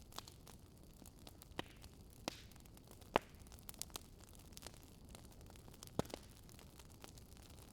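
Campfire firewood crackling faintly: a low steady hiss broken by sparse, irregular sharp pops, the loudest about three seconds in.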